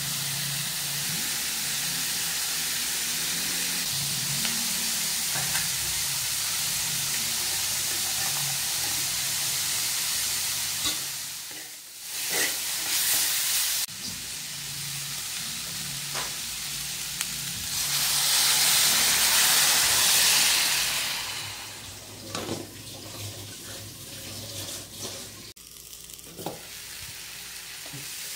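Bamboo shoot strips and pork sizzling as they are stir-fried in an aluminium wok, with a few clicks of the utensil against the pan. The sizzle swells louder for a few seconds past the middle.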